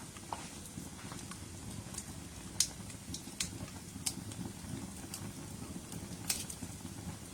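Wood campfire burning: a steady low rumble of flames with scattered sharp crackles and pops, the loudest pops a little over two and a half seconds in and about six seconds in.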